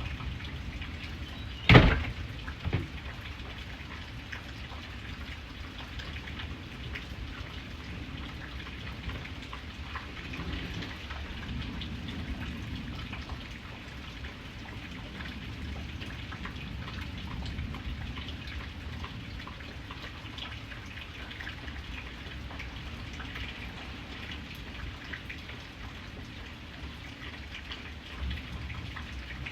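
Steady rain falling and pattering on a surface. A single sharp knock sounds about two seconds in, followed a second later by a fainter one.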